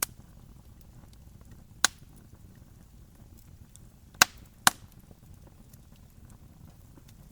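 Campfire burning with a low steady rumble and faint crackle, broken by four sharp pops of burning wood: one at the start, one nearly two seconds in, and two in quick succession a little past four seconds.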